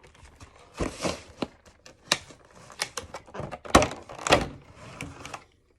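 A cardboard trading-card collection box being opened and its contents handled: an irregular run of taps, knocks and short scrapes, loudest a little under four seconds in.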